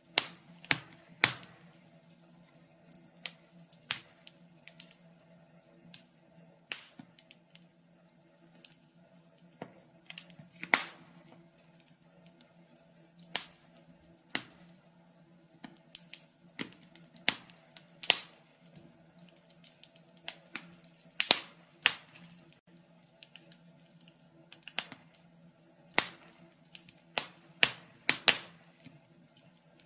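Logs burning in a fireplace, crackling with irregular sharp pops and snaps, some much louder than others, over a faint steady low hum.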